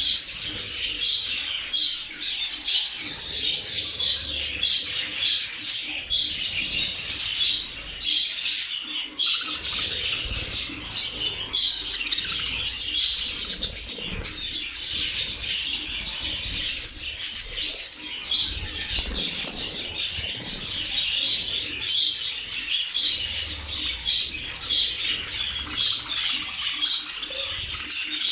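A flock of budgerigars chattering continuously, many birds warbling and chirping over one another, with some wing flapping.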